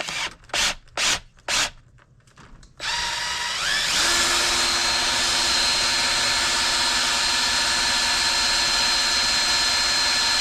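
Four brief noises, then a power-driven wire stripper's motor starts about three seconds in, winds up in pitch over about a second and runs steadily at speed.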